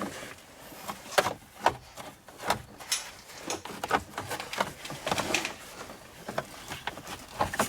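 Plastic steering column cover being fitted back into place, with a string of irregular clicks and knocks.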